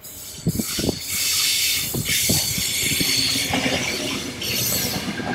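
Double-deck Sydney electric train passing close by, with a loud rushing hiss and irregular knocks from its wheels running over the track and points.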